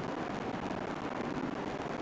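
R142 subway car running between stations, heard from inside the car: a steady rumble of wheels on the rails and car noise, with no change in level.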